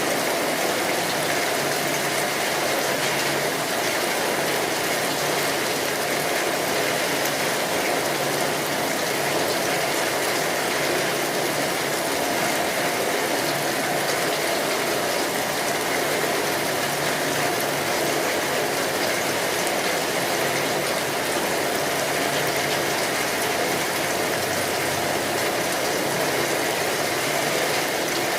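Steady rainfall: a dense, even hiss of rain that does not change in strength.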